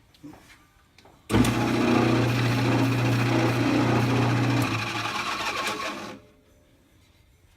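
Lathe running with a steady hum over a noisy cutting sound as a drill bit bores into the spinning dowel. It starts abruptly about a second in and dies away after about five seconds.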